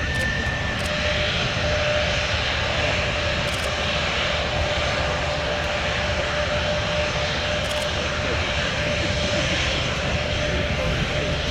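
Kawasaki P-1's four turbofan jet engines running steadily, a continuous rushing rumble with a thin steady whine.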